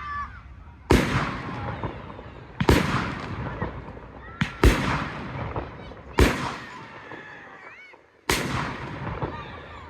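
Firework shells bursting: about six sharp bangs, one every one to two seconds, each trailing off into a fading rumble and crackle.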